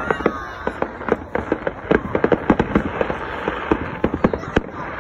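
Fireworks display: a fast, irregular string of sharp cracks and pops from bursting shells, densest in the middle.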